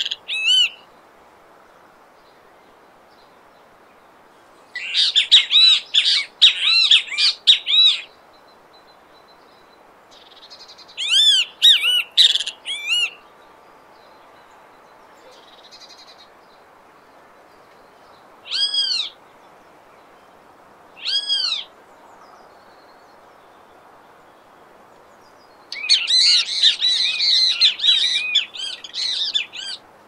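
Great kiskadee calling: quick runs of sharp, arched notes in several bouts, with two single calls between them and a longer bout near the end, over a faint steady background hiss.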